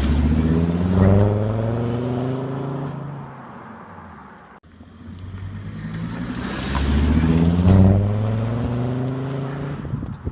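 Volvo V70 2.4 D5 five-cylinder turbodiesel sounding through a stainless steel, almost straight-through turbo-back exhaust with only a centre silencer. The engine note swells twice, about six seconds apart, each time easing off over a few seconds.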